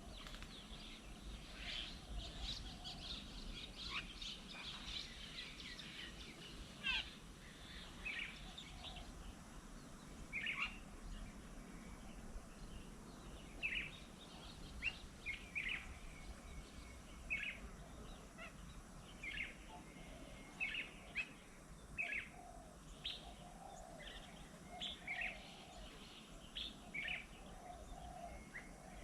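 Birds chirping at a garden bird table: many short, sharp calls at irregular intervals throughout, over a steady low background rumble.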